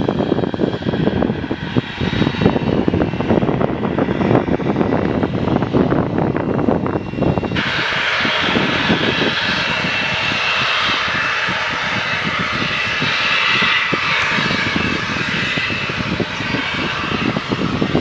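Cessna Citation XLS business jet's twin turbofans at taxi power, with a steady jet hiss and a high whine. About halfway through, the sound suddenly turns brighter and the whine comes forward.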